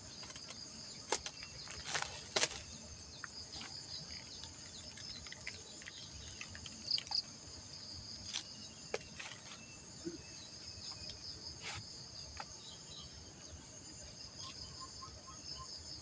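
Steady, high-pitched insect chorus, with a few short sharp clicks in the first few seconds and faint scattered chirps.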